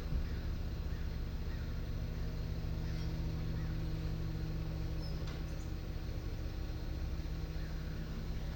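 Garbage truck engine idling steadily, with a brief knock right at the start.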